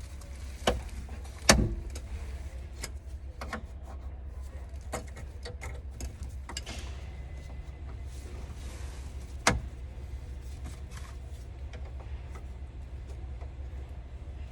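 Scattered sharp knocks and clicks of hand work on parts, the loudest about a second and a half in and another near the ten-second mark, over a steady low hum.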